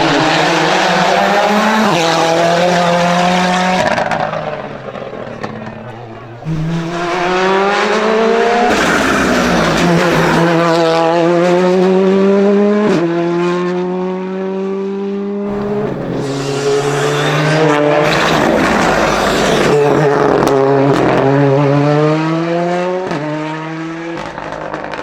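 Hill-climb racing car's engine at high revs, its pitch climbing and then dropping sharply again and again as it shifts gear while accelerating hard. There is a softer stretch about four seconds in, before it pulls hard again.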